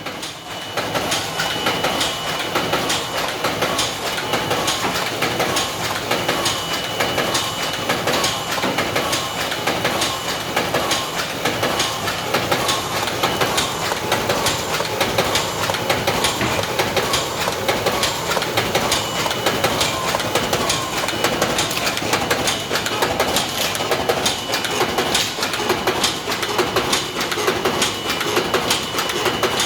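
DigiFold Pro-XL automatic creaser-folder running continuously, feeding, creasing and folding sheets with a fast, even, rhythmic clacking over a steady high-pitched whine.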